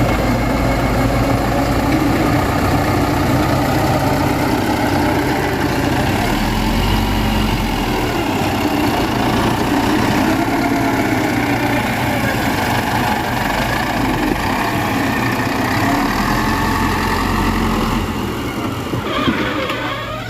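Heavy earthmoving machine's diesel engine running under changing load, its pitch rising and falling; the low part of the sound drops away in the last couple of seconds.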